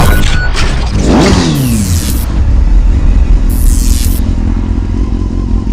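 Motorcycle engine revving, with its pitch sweeping down steeply about a second in, over a heavy rumble like wind on the microphone.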